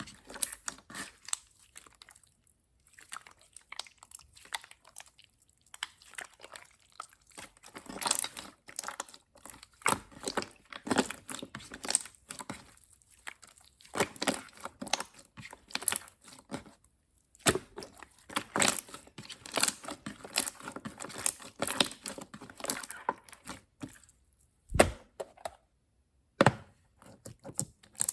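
Slime being squished and worked by hand, giving irregular runs of crackling, popping clicks, with two sharp snaps near the end.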